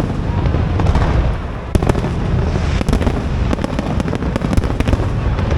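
Aerial fireworks exploding in rapid succession: many sharp bangs and crackles over a continuous low rumble.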